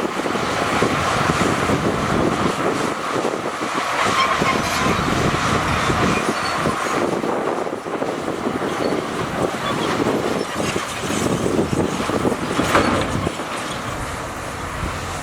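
Shantui crawler bulldozer running, with clatter from its steel tracks.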